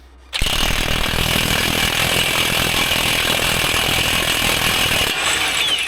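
Impact wrench hammering continuously on a wheel-hub axle nut to break it loose, starting suddenly and cutting off after about five seconds.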